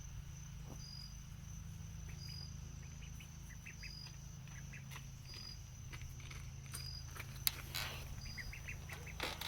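Crickets chirping, a short high chirp repeating about every second and a half over a steady high insect trill, while young ducks give short soft calls twice. A single sharp click sounds about three quarters of the way through.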